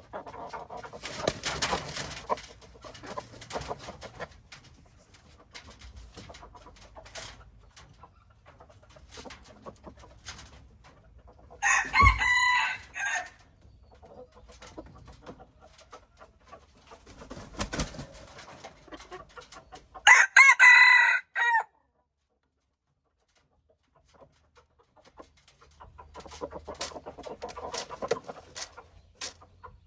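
Rooster crowing twice, about twelve and about twenty seconds in, each crow lasting a second or so, with fainter clucking between.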